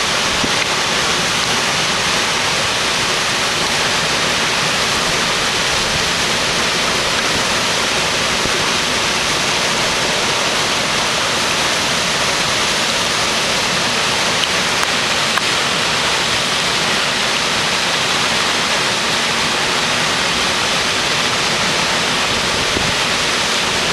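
Waterfall and river water rushing in a steady, unbroken noise.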